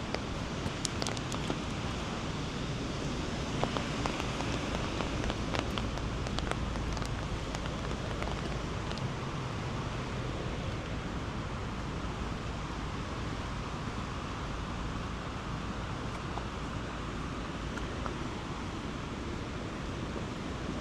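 Steady outdoor rushing noise of rain and flowing water, with scattered light ticks and taps during the first nine seconds or so.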